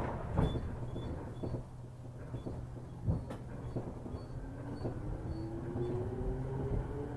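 Inside a JR 205-series electric train's motor car as it pulls away from a station: a few sharp clunks near the start, then the traction motors' whine rising steadily in pitch as the train accelerates from about four seconds in.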